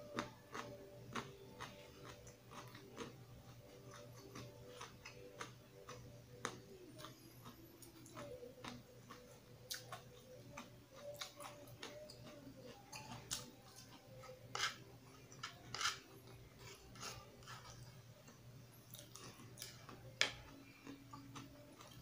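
Close-up chewing and mouth sounds of a person eating eggplant steak: soft, irregular wet clicks and smacks, a few of them louder.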